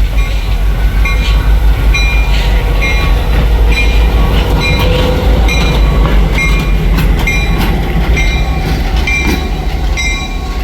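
Train moving on a nearby track: a heavy, steady low rumble with short ringing strikes repeating at an even pace.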